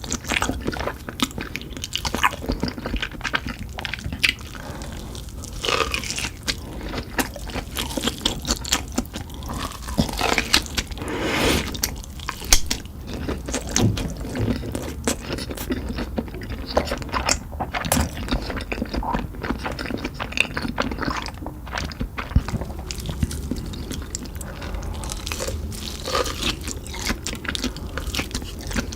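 Crunchy food being bitten and chewed: irregular crunches and crackles with chewing in between.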